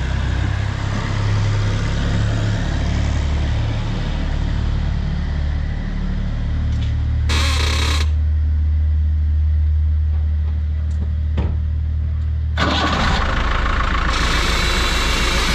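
Ford Transit van's engine idling while the steering is turned, with a short burst of noise about halfway through, a sharp click, then a longer rough noisy stretch near the end. The noises come from the front end, typical of worn ball joints according to the mechanic, who later confirms a ball joint is at fault.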